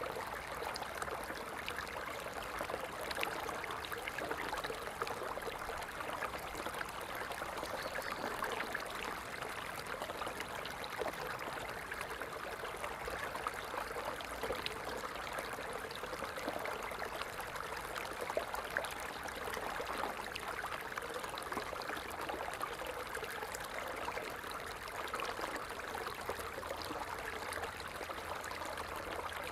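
Water falling and splashing steadily in a continuous stream, an even rushing patter with no pauses.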